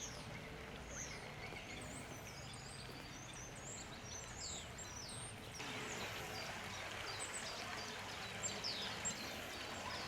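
A chorus of small songbirds, with many short, high chirps and whistles overlapping, over a steady low background rumble. The background hiss grows louder about halfway through.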